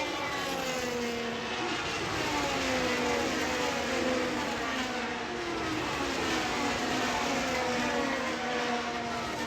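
Several sprint car engines racing at once. Their overlapping notes keep falling in pitch, over a steady noise.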